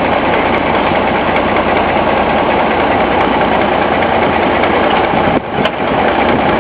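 Locomotive engine running steadily while pushing a caboose onto a turntable. The level dips briefly with a click about five and a half seconds in.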